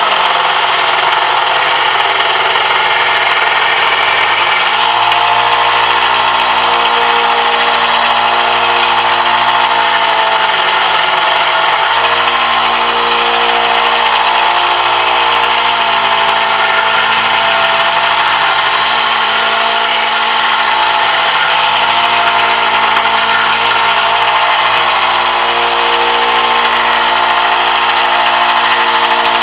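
Electric power tool running continuously with a steady motor hum. The higher hiss of the work shifts in strength every few seconds.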